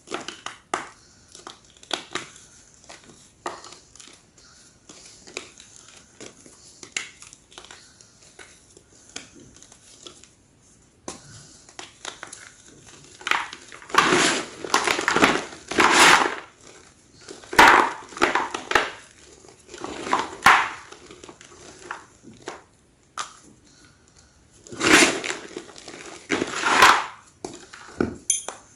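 Large slabs of gym chalk (magnesium carbonate) being crushed in a run of crunchy, crackling breaks. Quieter crunches come first, and louder clusters of crunching come about halfway through and again near the end.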